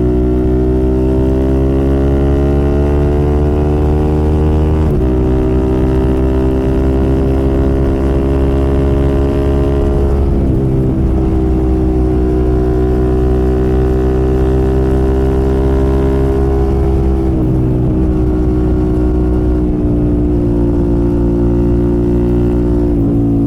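Sport motorcycle engine with an aftermarket silencer, running under steady throttle while riding, its note slowly climbing in pitch. There are brief breaks in the note about every six seconds.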